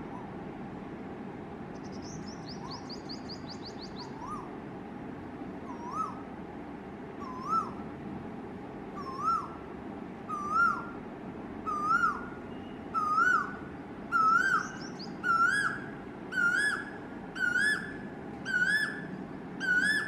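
Male Asian koel singing its rising song: a series of repeated two-part calls, each higher, louder and closer to the last, about a dozen in all. About two seconds in, another bird gives a brief fast high trill.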